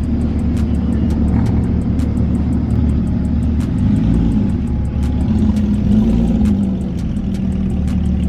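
Car engines running with a steady low rumble that swells a couple of times, with a string of faint high ticks above it.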